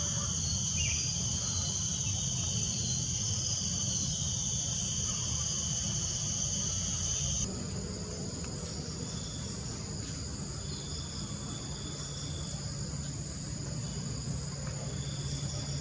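A dense chorus of insects holding several steady, high-pitched tones over a low rumble. About halfway through it changes abruptly to a different insect chorus, in which a shrill buzz comes in three times, lasting a second or two each time.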